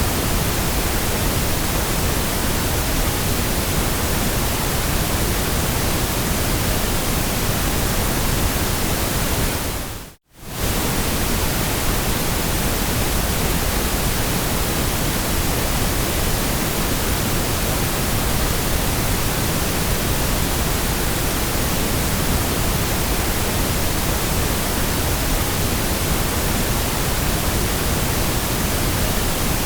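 Steady generated white noise, an even hiss across all pitches, that dips briefly to silence about ten seconds in and comes straight back.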